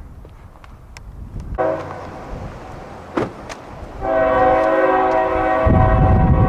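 Norfolk Southern locomotive air horn sounding a held multi-note chord, faint at first, then a long loud blast from about four seconds in. Wind buffets the microphone near the end.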